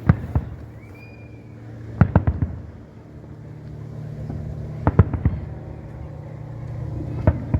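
Fireworks and firecrackers going off in quick clusters of sharp bangs, a few seconds apart, over a steady low hum.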